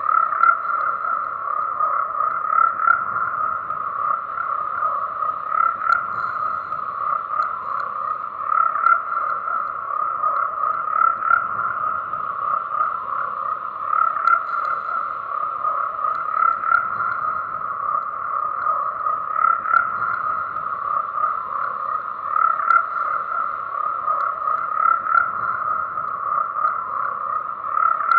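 Frogs croaking steadily in a dense chorus, with small swells every second or two.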